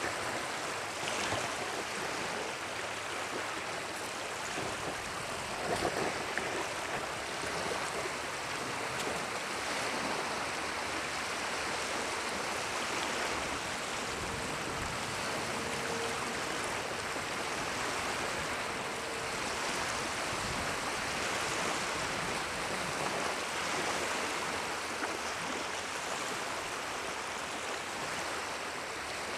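Running water, a steady rushing with no break.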